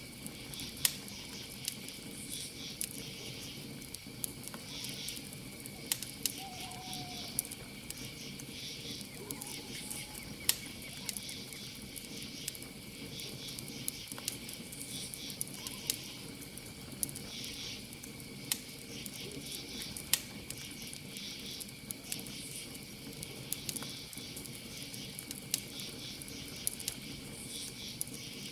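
Campfire crackling, with irregular sharp pops every second or two, over a steady chorus of night crickets chirping in repeated pulses and a continuous high trill.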